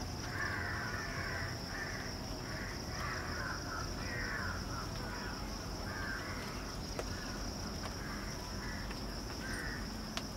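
Harsh bird calls, repeated about eight times at uneven intervals, over a steady high-pitched insect trill.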